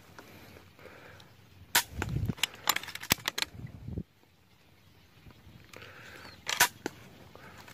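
Two sharp shots from a hunting air rifle, about five seconds apart, the second the louder. Between them comes a couple of seconds of rumbling, knocking handling noise.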